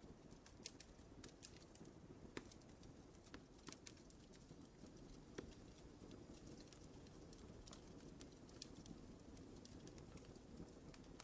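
Wood fire burning in a fireplace, faint: a low steady rumble of flames with scattered sharp crackles and pops, the loudest pops a little over two seconds in and about five and a half seconds in.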